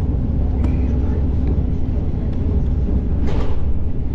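Steady low rumble of a moving train, heard from inside the carriage, with a brief hiss a little past three seconds in.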